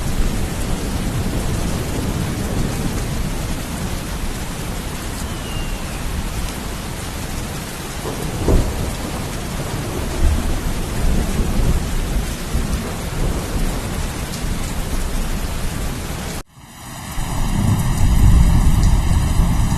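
Steady heavy rain with low, rolling thunder rumbles underneath. About three seconds before the end the sound cuts out abruptly, then a deep rumble swells back in.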